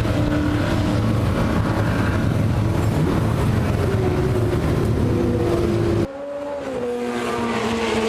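Historic racing car engines at high revs, the pitch climbing. About six seconds in it cuts abruptly to another racing engine, quieter at first, its pitch dropping once before it holds steady and grows louder.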